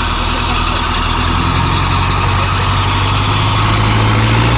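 Tractor diesel engine running loudly and steadily; its pitch steps up a little about one and a half seconds in and then keeps creeping higher.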